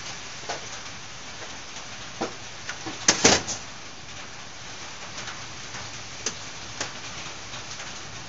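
Steady hiss of pouring rain, with scattered small clicks and knocks from carburetor parts being handled on a workbench. The loudest is a short clatter about three seconds in.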